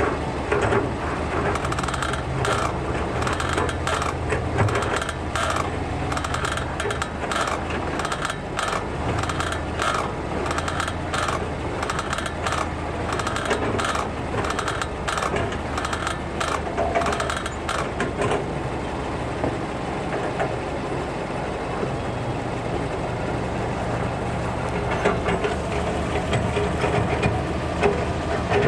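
Brembo brake caliper creaking in a rapid string of repeated "gigigi" squeaks while the brake is pressed hard at a standstill, with the engine idling underneath. The noise comes from the brake's grease having run out, washed away by heat. The creaking stops about 18 seconds in, leaving the idling engine.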